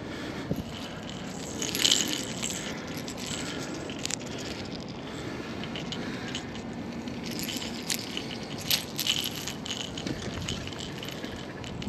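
Scattered light clicks, rattles and small knocks of fishing gear being handled, over a steady low background noise, with a brief louder cluster about two seconds in and another near nine seconds.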